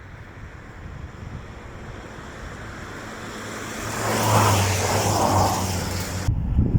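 A motor vehicle driving past, its engine hum and tyre noise swelling to a peak a few seconds in. Near the end it cuts off abruptly into gusty wind noise on the microphone.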